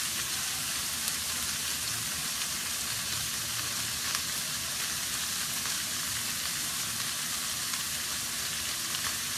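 Minced beef and onion sizzling steadily in a hot nonstick frying pan, with tomato paste being added to fry in the oil and heat.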